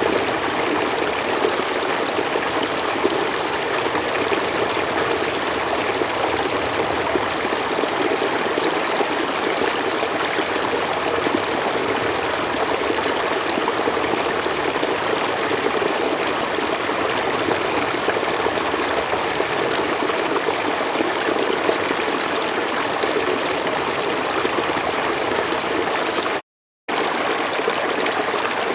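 River water flowing steadily, a continuous rushing and trickling. The sound cuts out completely for about half a second near the end, then resumes unchanged.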